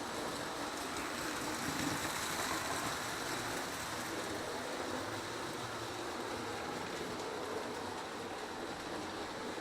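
Several model trains, O gauge Lionel locomotives among them, running at once around a test board: a steady running noise of motors and wheels on track.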